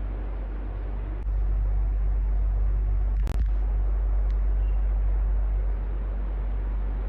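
Electric fan running steadily with a low hum and an even rush of air. It grows louder a little over a second in, gives one sharp click with a momentary break about halfway through, and settles slightly quieter near the end.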